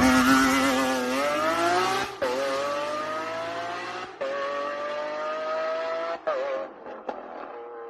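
Lamborghini Aventador SVJ's V12 with a Novitec exhaust accelerating hard, the note climbing and dropping at three quick upshifts about two seconds apart, growing fainter with each gear.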